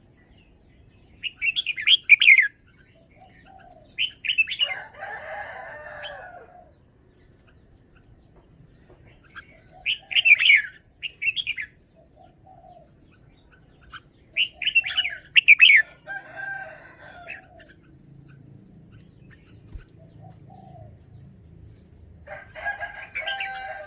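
Red-whiskered bulbul singing its song in short, loud, clear phrases with pauses of several seconds between them, about five phrases in all. A longer, lower call sounds twice between the phrases.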